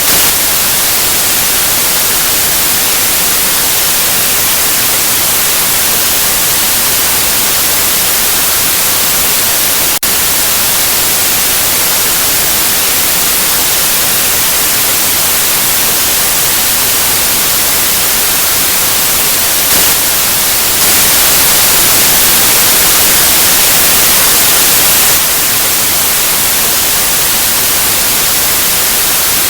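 Steady white noise hiss, with one brief click about ten seconds in and a slightly louder stretch a little past the middle.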